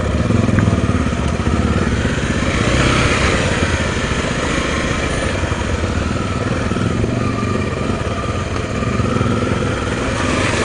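Honda XR250 Tornado trail motorcycle's single-cylinder four-stroke engine running while being ridden, its pitch rising and falling a little as the throttle changes.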